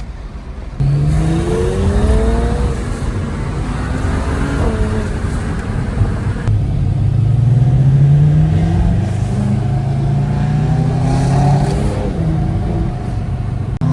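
BMW 335is twin-turbo inline-six under hard acceleration. It jumps in loudness about a second in, then climbs in pitch in two long rising pulls.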